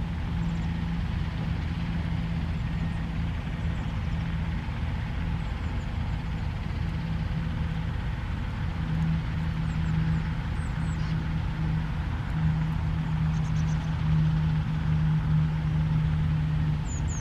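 A steady low engine drone, like a motor vehicle running nearby, with a humming tone that wavers in and out. Faint, short, high bird calls come through a few times, the clearest near the end.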